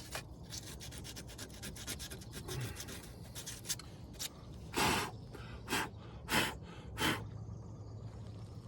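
Sandpaper rubbed by hand on metal: a quick run of short scraping strokes, then four longer, louder strokes in the second half.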